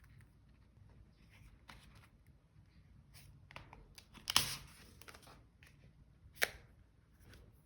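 Quiet handling of paper and stickers, light rustles with two short, sharper crisp noises about four and six and a half seconds in, the first the louder.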